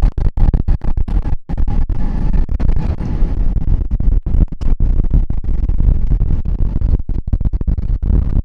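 Heavy wind buffeting the microphone in gusts, a deep rumble that cuts out for an instant many times, with music faintly underneath.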